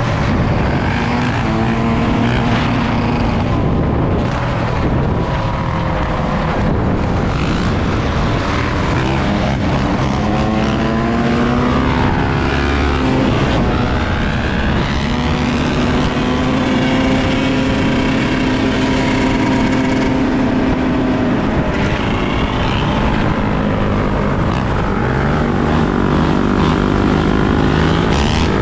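Yamaha YZ125's single-cylinder two-stroke engine running under way. Its revs climb and drop several times, loud and unbroken throughout.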